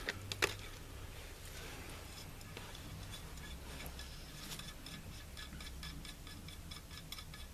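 Faint metallic clicking of a jam nut being spun down the threaded muzzle of a rifle barrel by hand: a couple of clicks at the start, then a run of about four light ticks a second in the second half, over a low hum.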